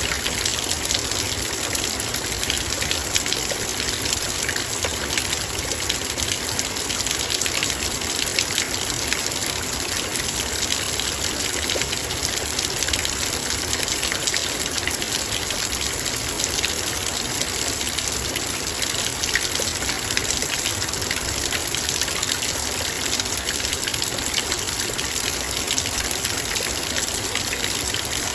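Heavy rain drumming steadily on a metal bowl, a dense hiss thick with fine drop ticks.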